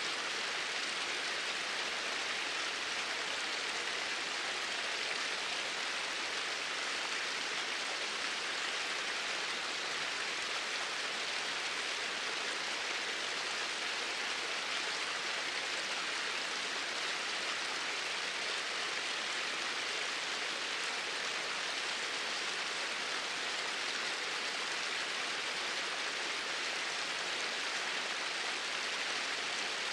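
Flowing water rushing steadily in an even hiss, with no change.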